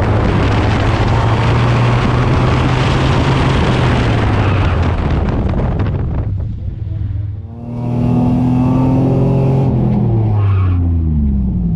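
V6 Ford Mustang running hard on an autocross course: engine under load beneath a loud rushing noise, then a short dip in level about six to seven seconds in. The engine comes back, and near the end its revs fall steadily as the car slows.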